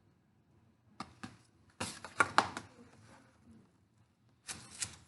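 Short bursts of clicking and rustling, as from hands handling something close by: a few about a second in, a denser cluster around two seconds in, and more near the end.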